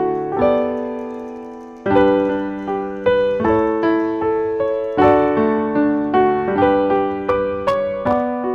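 Background piano music: a slow, gentle piece of single notes and chords, each struck note fading away before the next.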